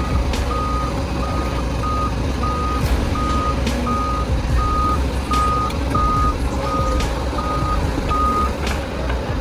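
Heavy machine's reversing alarm beeping at one steady pitch, a beep about every half second, over a diesel engine running; the beeping stops near the end.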